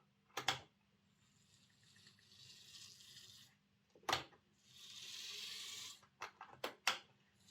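Lima Class 55 Deltic OO gauge model locomotive running on a test track after a service: a faint, hiss-like whirr of its small motor and gears in two stretches, with sharp clicks about half a second in, about four seconds in and several near the end.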